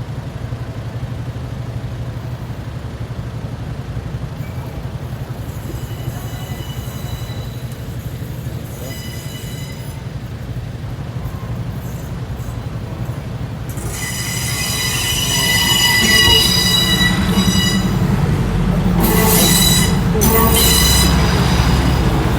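Diesel train running slowly, with a steady low engine hum. Its steel wheels begin to squeal faintly on the rails, and from about two-thirds of the way through they squeal loudly at a high pitch over a heavier rumble as the train comes close.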